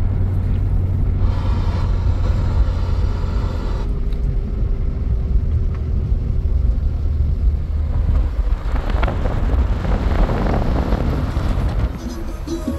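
Vehicle on the move: a steady low rumble, with a rise of hissing noise about two-thirds of the way through.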